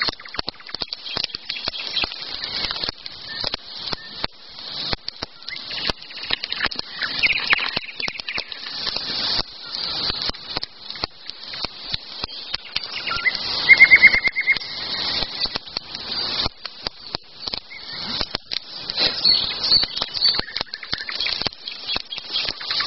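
Wild birds singing, with high chirping throughout and one loud, rapid trill a little past the middle, over a steady run of dense sharp clicks and crackles.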